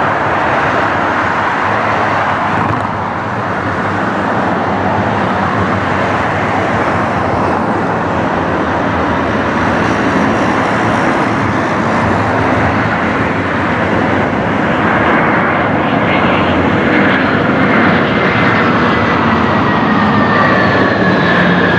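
Jet airliner engines: a steady loud rush that grows louder in the second half, with a high whine that slides down in pitch near the end as the aircraft passes.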